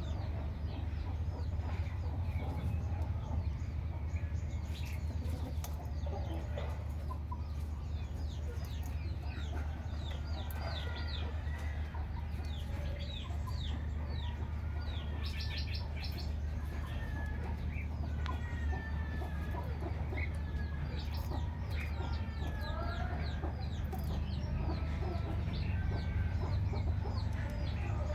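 Birds calling over a steady low hum: many short, high chirps that fall in pitch, mixed with some warbling phrases and chicken-like clucking.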